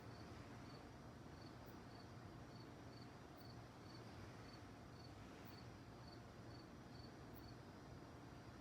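A cricket chirping faintly at an even pace, about two short high chirps a second, falling silent near the end, over a steady low background hiss.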